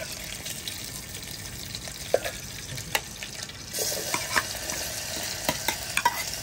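Metal ladle stirring and tapping in an aluminium camping pot of hot desi ghee on a butane canister stove. About four seconds in, chopped onions are tipped into the ghee and it starts sizzling steadily, the start of a tadka, with more ladle clicks on top.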